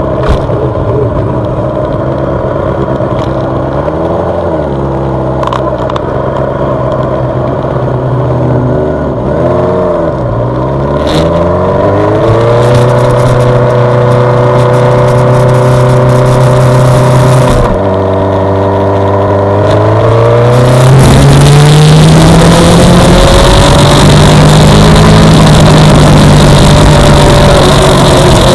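Suzuki GSX-R600's inline-four engine heard onboard on track, its pitch dropping and rising through gear changes and corners, then holding steady and climbing hard near the end with rising wind noise.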